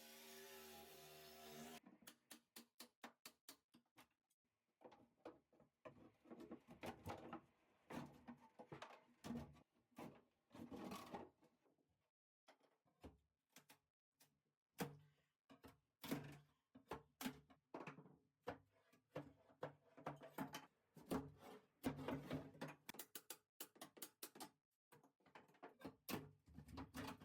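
A low steady hum cuts off about two seconds in. Irregular quiet knocks and thuds follow, some in quick runs.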